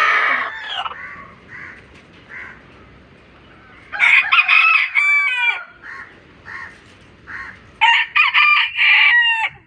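A rooster crowing twice, each crow a long, loud, pitched call that steps down at its end. Between the crows, soft short clucks repeat evenly.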